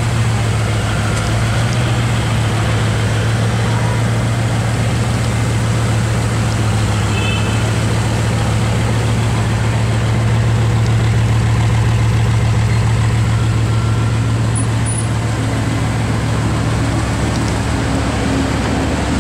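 Bugatti Veyron's quad-turbo W16 engine idling: a steady, even low drone with no revving.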